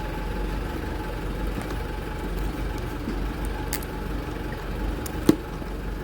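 Steady low rumble of a motor vehicle's engine and road noise heard from inside the vehicle, with one sharp click a little after five seconds in.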